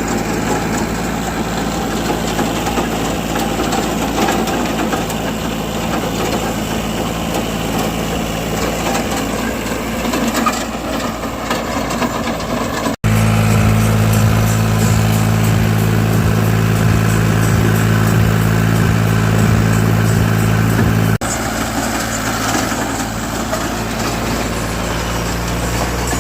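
New Holland tractor's diesel engine running steadily. About halfway through it abruptly jumps louder, with a stronger low engine note, and then drops back just as abruptly later on.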